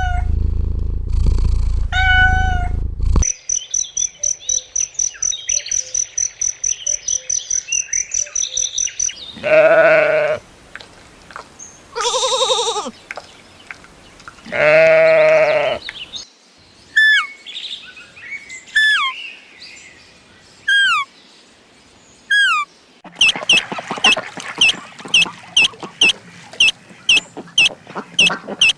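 A run of farm and bird sounds. Two short cat meows come first, then a fast train of high bird chirps. Three long goat bleats follow, then single downward-sweeping bird whistles, and near the end a rapid run of short repeated bird calls.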